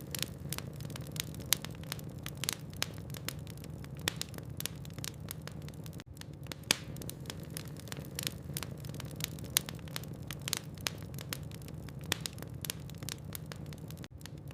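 Logs burning in a fireplace, with frequent irregular crackles and sharp pops over a steady low rumble of the fire. The sound drops out for a moment about six seconds in and again near the end.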